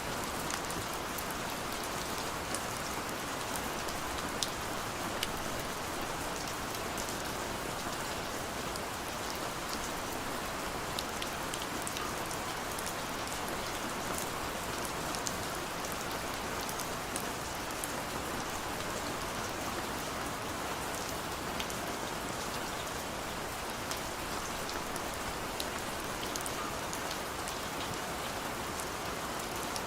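Steady rain falling, with a constant even wash and many small, sharp drop ticks scattered through it.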